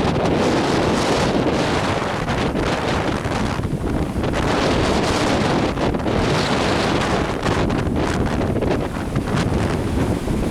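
Strong wind buffeting the microphone in a steady, heavy rumble, with lake waves washing under it.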